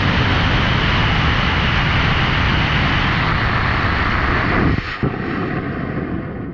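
54 mm four-grain solid rocket motor burning on a static test stand with a loud, steady rushing roar. About five seconds in it drops off sharply at burnout, leaving a weaker, fading tail.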